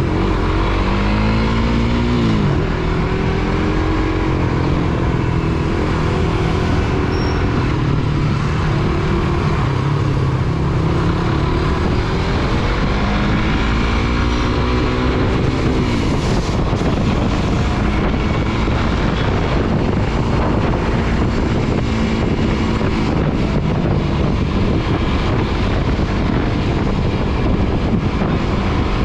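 Suzuki GSX-R150 single-cylinder engine on the move, pulling up through the revs and dropping back as the rider accelerates and shifts, over a steady hiss of road and air noise.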